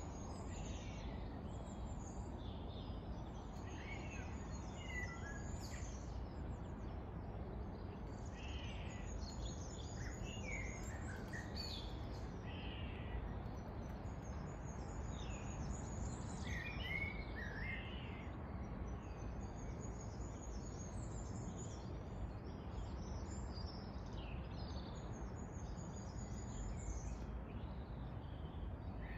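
Songbirds chirping and singing in short phrases over a steady low rumble of outdoor background noise.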